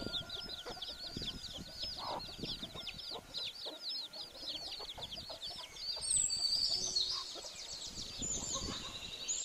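Domestic chicks peeping in a steady stream of short, high, rising-and-falling chirps, several a second, overlapping from many birds, a little louder around six seconds in.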